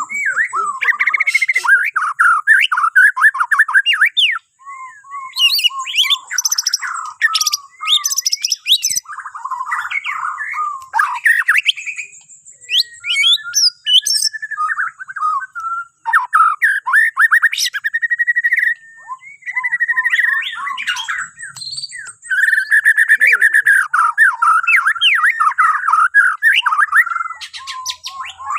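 A Bornean shama (murai batu Borneo) singing a long, varied song of rich whistled phrases, fast trills and sharp clicking notes, broken by short pauses.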